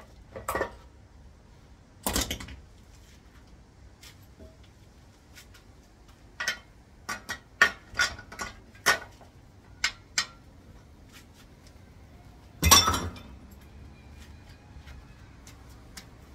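Metal transmission parts and tools clinking and knocking against each other and a hard surface as they are handled during a teardown: a dozen or so sharp, separate clinks, with louder knocks about two seconds in and near the end.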